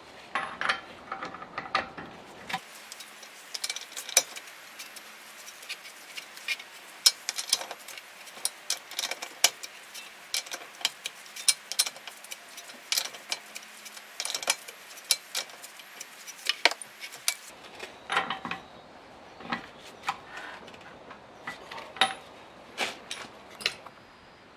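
Irregular metallic clicks and clinks of tools and metal parts being handled during mechanical work on a car.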